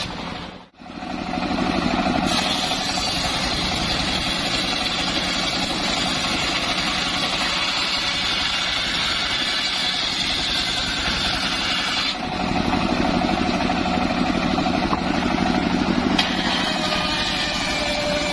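Homemade engine-driven circular saw running steadily, with the blade's higher hiss as it rips timber. The sound shifts in character a few times.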